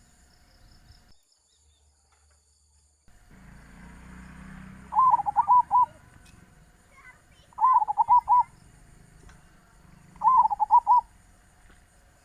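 Zebra dove (perkutut) cooing: three short phrases of rapid rippling coos, about two and a half seconds apart.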